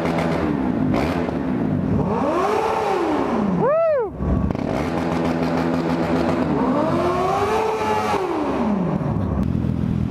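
Motorcycle engine idling and being revved while stationary: a long rev up and back down, a short sharp blip, then another long rev that falls back to idle.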